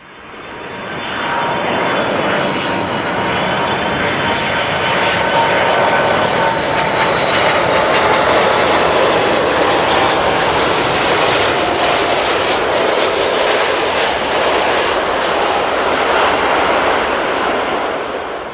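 Boeing 737-800's CFM56-7B jet engines at takeoff thrust: a loud, steady rush of engine noise with faint whining tones that slowly fall in pitch. It swells up at the start and fades near the end.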